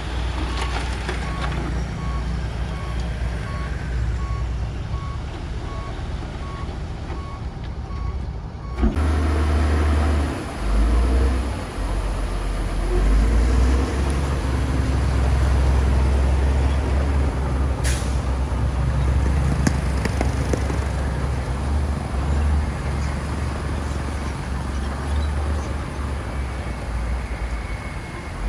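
Heavy diesel earthmoving machine, a bulldozer, running under load, with a reversing alarm beeping about twice a second for the first third. About nine seconds in the sound changes abruptly and the engine becomes louder and deeper, with a sharp click or knock near the middle.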